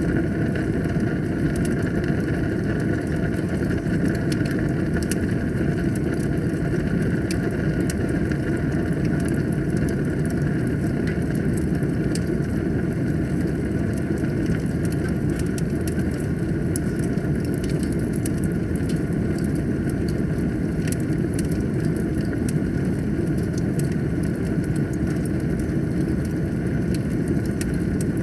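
Wood fire burning in a fireplace: a steady low rumble with many small, sharp crackles scattered through it.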